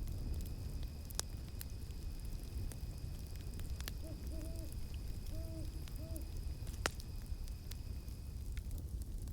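Campfire crackling with scattered sharp pops over a low rumble, while an owl hoots four short times in the middle. A steady high insect drone, which the video gives as cicadas, runs beneath and stops near the end.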